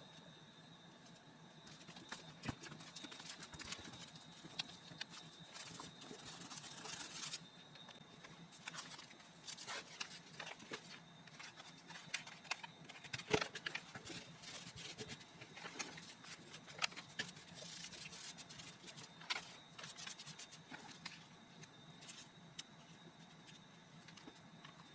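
Quiet handling sounds of paper-crafting work: scattered light taps and clicks, with a stretch of paper rustling about six to seven seconds in. A faint steady high whine runs underneath.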